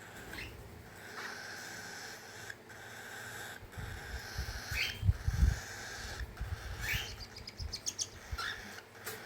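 Cockatiel chicks calling: a steady, raspy begging buzz broken by short rising chirps every second or two. A run of low thumps and bumps comes about halfway through.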